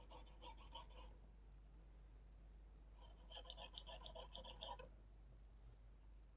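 Faint, quick scratchy strokes of a cleaning stick scrubbing the TV panel's COF contact points: one short run in the first second, then a longer run from about three seconds in.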